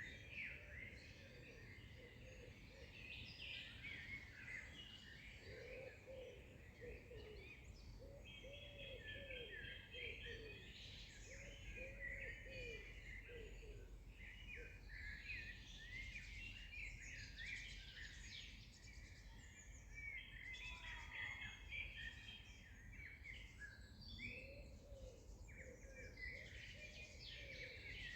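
Several birds singing at once, quietly, in a dense mix of chirps and trills. A lower, looping call comes in for stretches, over a faint low background rumble.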